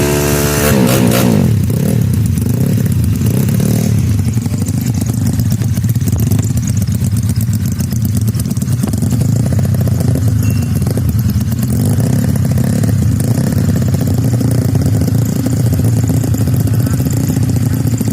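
Tuned Yamaha Mio drag-racing scooter engine running loud and rough. A rev drops back about a second in, then it holds a steady idle.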